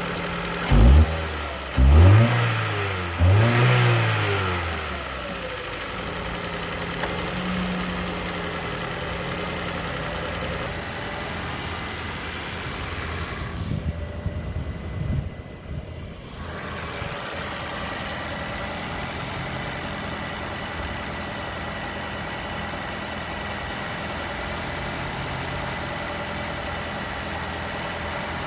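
2012 Ford Focus engine revved three times in quick succession, about a second, two seconds and three and a half seconds in, then settling back to a steady idle.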